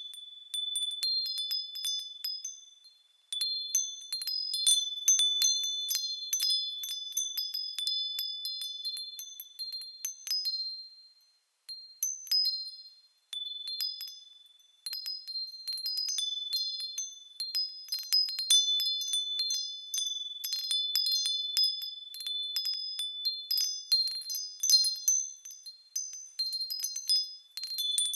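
Small high-pitched bells tinkling as they swing, struck irregularly and many times over, each note ringing on. The ringing dies away twice, once about three seconds in and again for a few seconds near the middle, before picking up again.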